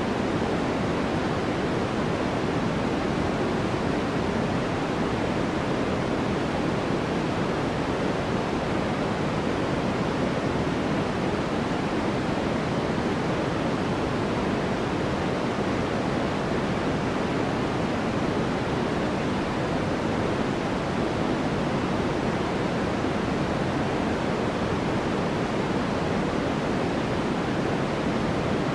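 Steady, unchanging synthetic noise for sleep, weighted toward the lower middle of the range, more like pink noise than flat white noise.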